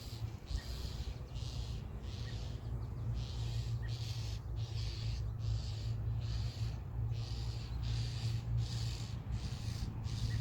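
Birds scolding with a regular series of harsh, rasping alarm calls, about three every two seconds, over a steady low hum. The calls are the alarm of songbirds mobbing a predator, which the watcher takes for a weasel, in a starling nest.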